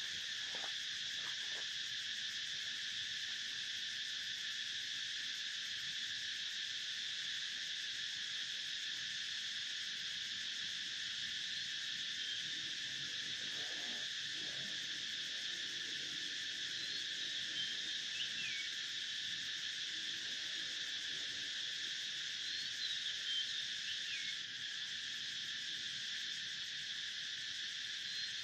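Steady chorus of insects, an unbroken high drone. A few short, high chirps sound over it from around the middle on.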